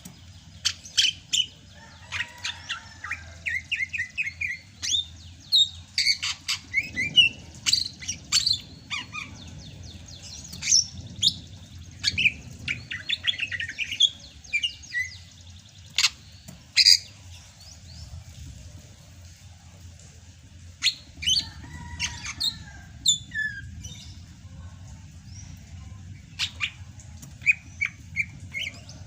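Sumatran cucak hijau (green leafbird) singing energetically in a varied song of sharp chirps, short whistles and quick rattling trills, with a brief pause partway through.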